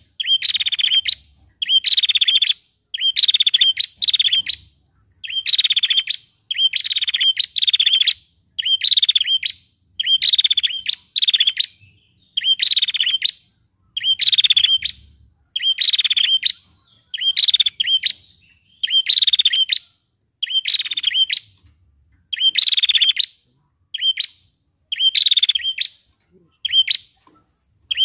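Female prenjak calling: short, rapidly trilled phrases repeated about once a second, loud and regular, with brief silences between.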